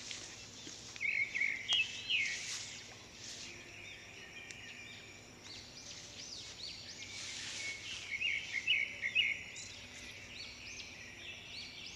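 Birds chirping in quick runs of short notes, with louder runs about a second in and again around eight seconds in, over a faint steady hiss.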